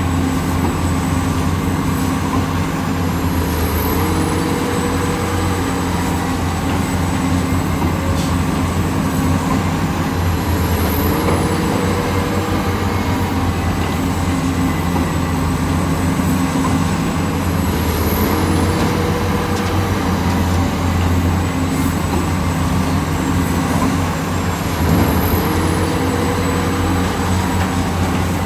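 Heavy excavator's diesel engine running steadily under load. A short hydraulic whine rises in about every seven seconds, four times in all, as the machine works through its cycles.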